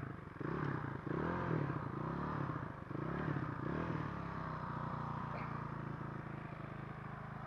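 Dirt bike engine revved up and down twice, then running at a steady speed.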